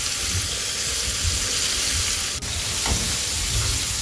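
Flour-dredged shrimp deep-frying in a pan of hot oil, a steady sizzle. A brief click and dip about two and a half seconds in.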